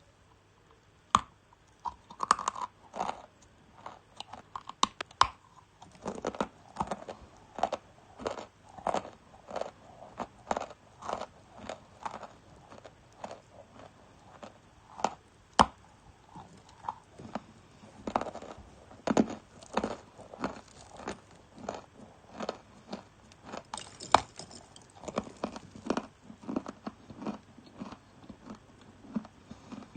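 Close-up crunching and chewing of hard, dry edible clay, with irregular crisp snaps as pieces are bitten off and ground between the teeth, about one or two a second. A few bites are much louder.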